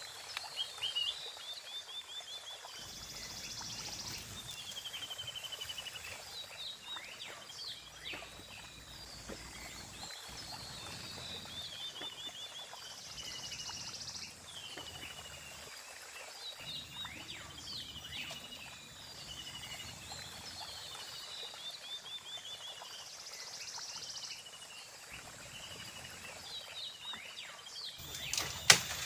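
Outdoor ambience of small animal calls: repeated high chirping trills and short calls, over a low, even rush that comes and goes. A single sharp knock sounds near the end.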